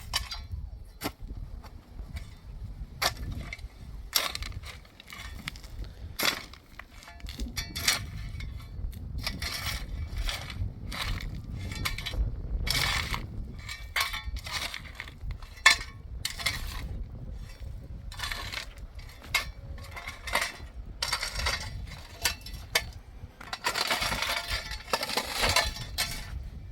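Irregular knocks, clinks and scrapes of hard objects being handled, with a denser stretch of scraping near the end, over a low rumble.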